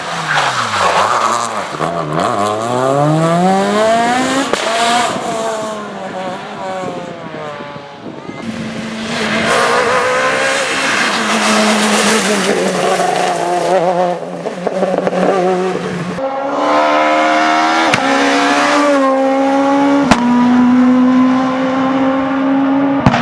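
S1600 rally cars run flat out with their high-revving 1.6-litre four-cylinder engines. The pitch climbs hard and drops back at each quick gear change, over several loud passes one after another.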